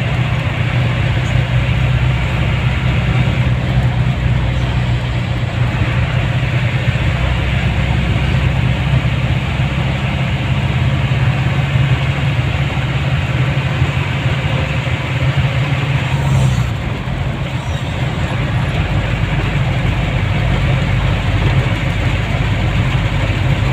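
Motor vehicle engine running steadily under road noise, as heard while riding along; the engine note shifts about two-thirds of the way through.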